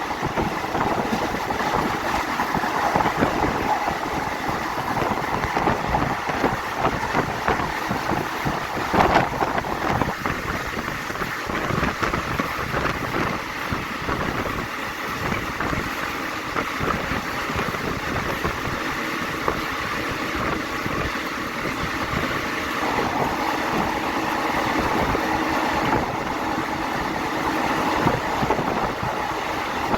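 Passenger train running along the track, a steady rumble of the moving carriage, with a brief louder knock about nine seconds in.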